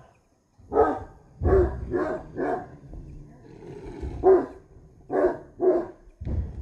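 Street dogs barking and snarling in a fight, about seven harsh barks in quick runs with rough growling underneath.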